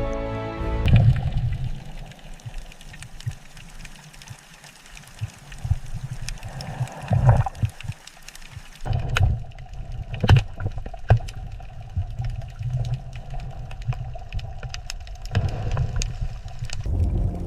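Background music cuts off about a second in, giving way to underwater-style ambience: a low rumble with scattered clicks, knocks and gurgles.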